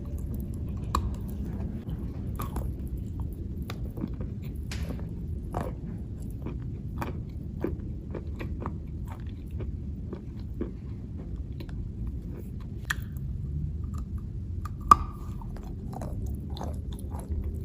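A person chewing chalk: irregular dry crunches and crackles as it is bitten and ground between the teeth, with one sharp, louder crack about fifteen seconds in, over a steady low background noise.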